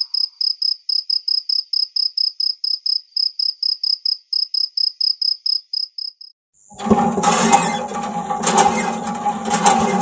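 Cricket chirping in an even run, about four or five high chirps a second, which stops about six seconds in. Shortly after, a loud, dense noise with a steady low hum starts.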